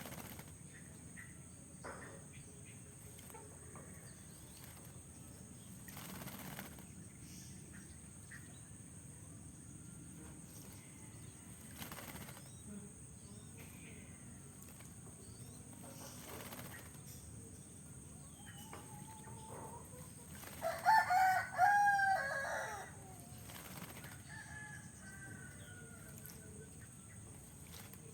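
A rooster crows once, a drawn-out call about three-quarters of the way through, and is the loudest sound. Before it come faint, brief flutters of a bathing oriental magpie-robin's wings shaking water every few seconds.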